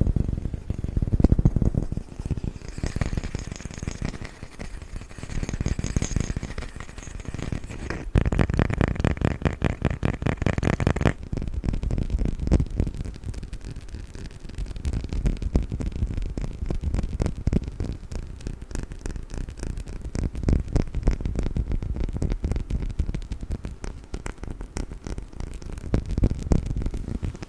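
Rapid tapping and scratching on a wooden lid. About eleven seconds in it changes to rapid tapping and handling of a perfume bottle.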